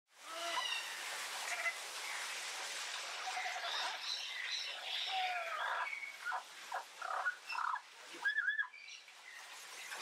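Several birds calling at once: overlapping chirps, whistles and short chatter, dense for the first several seconds, then thinning to separate sharp calls, with two loud arched call notes a little after eight seconds.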